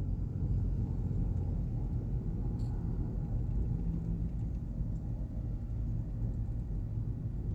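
Steady low rumble of a car driving along the road, heard from inside the cabin: engine and tyre noise with no sudden events.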